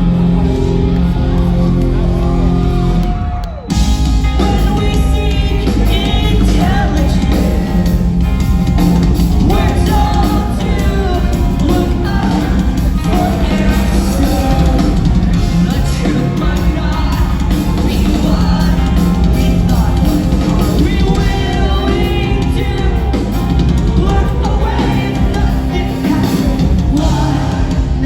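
Live rock band playing loudly in a large hall, with drums, guitars and sung vocals. Sustained chords ring for about the first three seconds, then break off briefly before the full band comes back in with the singing.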